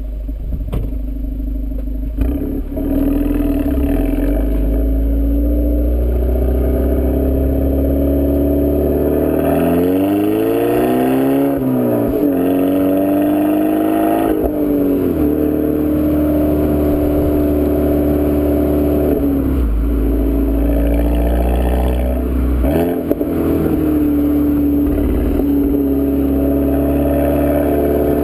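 A 2011 Volkswagen GTI's turbocharged four-cylinder engine running through an APR turboback exhaust while driving, with a deep exhaust drone. About ten seconds in the engine note climbs as the car accelerates, then drops back. The pitch changes again a few times later on.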